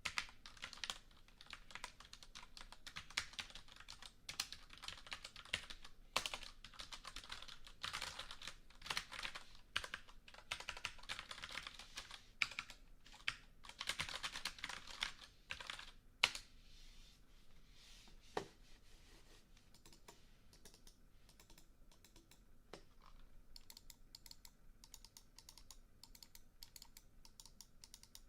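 Typing on a computer keyboard: dense runs of key clicks, one louder clack about 16 seconds in, then lighter, quieter tapping.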